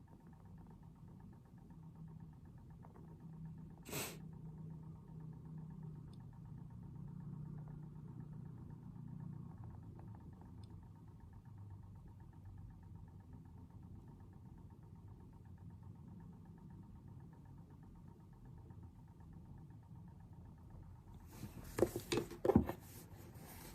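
A low, steady background hum, with a single sharp click about four seconds in. Near the end comes a quick run of loud clicks and knocks from things handled on a study desk.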